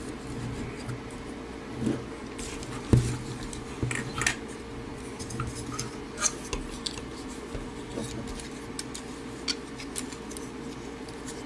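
Light plastic clicks and taps from a snap-fit plastic model kit figure being handled and posed. A sharper click comes about three seconds in, over a faint steady hum.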